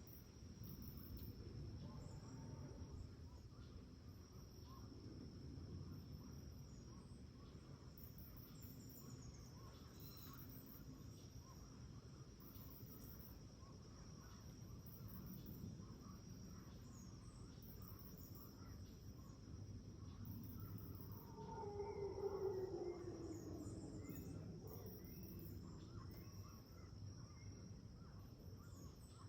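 Faint tropical rainforest morning ambience: insects chirp in rapid repeating high pulses over a steady high insect whine, with scattered bird calls and a low rumbling haze. About 21 seconds in, a louder call glides down in pitch over two to three seconds.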